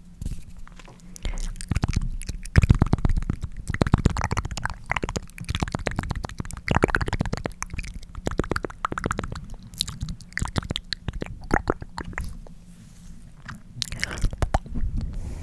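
Wet tongue clicks close to the microphone, fired off rapidly in irregular clusters, with a quieter lull a little before the end.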